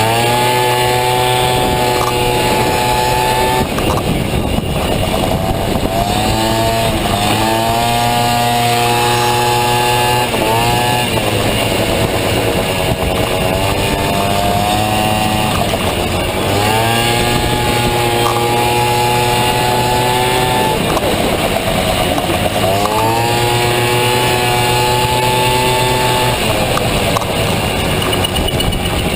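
Honda Dio two-stroke scooter engine, fitted in a Honda Motocompo, running hard on a race track: the revs climb and then hold at one steady high pitch for a few seconds before dropping off briefly, several times over.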